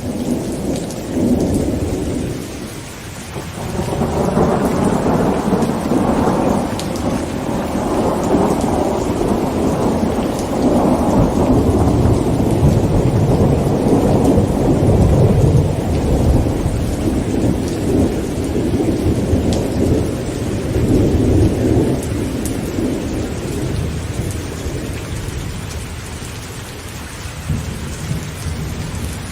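Heavy rain drumming on a tent, with a long rolling peal of thunder. The thunder swells briefly at the start, dips, then builds again from a few seconds in, is loudest around the middle and dies away toward the end.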